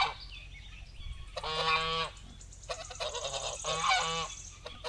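Goose honking: a few separate honks, roughly a second apart.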